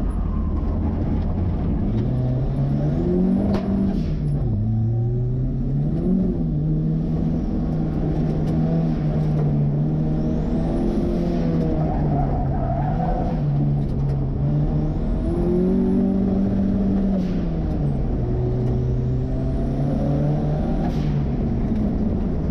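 Turbocharged Ford 2.3-litre four-cylinder in an old Volvo pulling hard on an autocross run, its note repeatedly rising as it accelerates and dropping as it lifts, with a high turbo whistle rising several times as it spools up.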